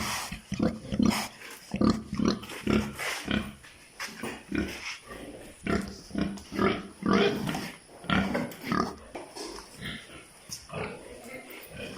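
Pigs grunting and snuffling in a pen, many short irregular grunts overlapping, fading somewhat near the end.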